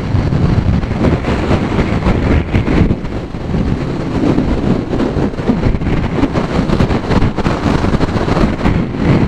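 Strong gusting wind buffeting the microphone of a moving motorcycle in a heavy crosswind, a loud continuous rumble with the ride's vehicle noise underneath.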